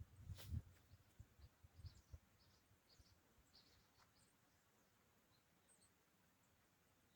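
Mostly near silence. A sharp knock and a few low thuds come in the first two seconds, followed by faint small-bird chirps.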